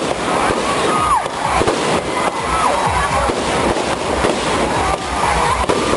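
Fireworks display: a dense, continuous barrage of bangs and crackles, with a few short descending whistle-like tones among them.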